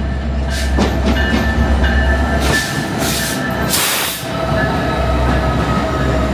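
Train riding along: a steady deep rumble with high whining tones from the running gear, and three bursts of hiss about one, three and four seconds in.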